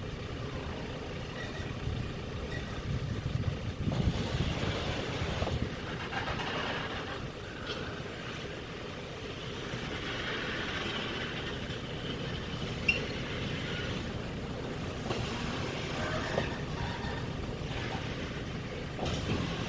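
Diesel rail vehicle running steadily during shunting, a low engine rumble with a few faint clicks and knocks, and one short sharp tick partway through.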